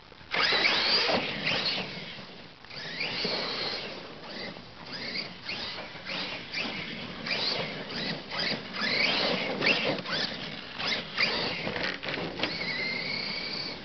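Brushless electric motor of a 1:8 scale RC monster truck whining up in pitch in repeated short bursts of throttle, mixed with tyre and drivetrain noise. Near the end it holds a steadier high whine.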